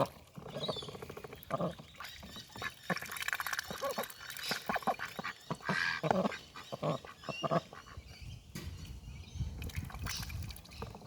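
A duck drinks by dabbling its bill very fast in water, making a rapid run of wet clicks and slurps. A few short quacks come in between, about halfway through and near the end.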